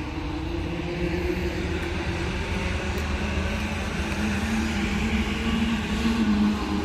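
A car engine running at low revs: a steady low drone whose pitch drifts slightly, a little louder near the end.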